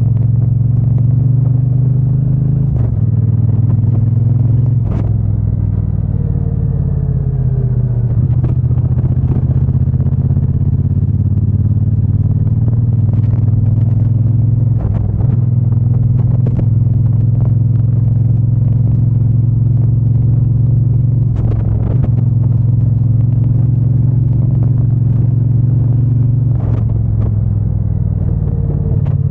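Triumph Bonneville T120's parallel-twin engine and exhaust running steadily on the move. The engine note shifts to a new pitch pattern a few times, and there are scattered short clicks.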